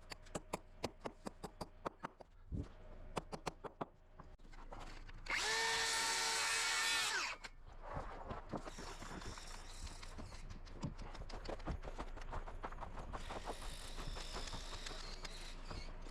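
A run of quick light knocks, then a power drill spinning at full speed for about two seconds and winding down. Fainter drill whine comes back twice later on.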